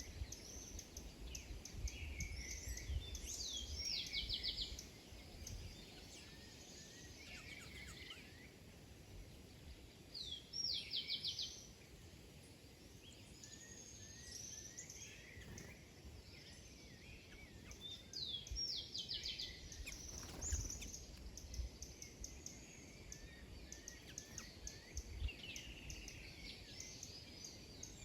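Several small birds chirping and calling, with a short rapid trill that comes back about three times, over a low background rumble.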